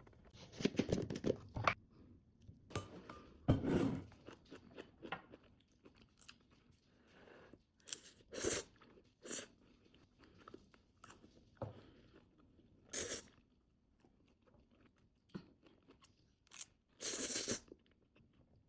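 Irregular crunching sounds close to the microphone, in short bursts with pauses between.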